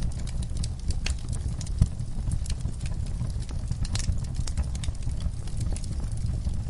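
Wood fire burning in a fireplace: irregular crackles and sharp pops over a low steady rumble, with one louder pop about two seconds in.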